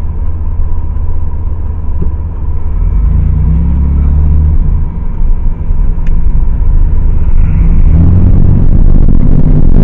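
Car cabin noise while driving: a loud, low engine and road rumble that grows louder over the second half.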